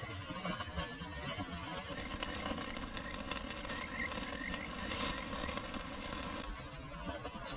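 Small stream babbling steadily, with scattered crackling clicks over it. A run of short rising chirps comes and goes through the middle.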